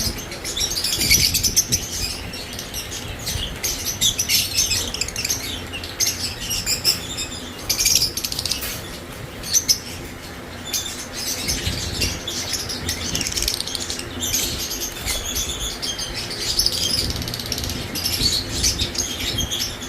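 A flock of caged lovebirds chattering, with dense, overlapping high-pitched chirps that go on without a break.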